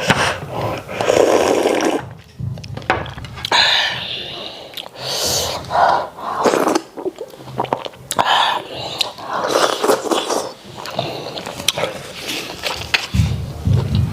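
Close-miked messy eating of starch and white soup: irregular wet smacking and chewing with mouth noises.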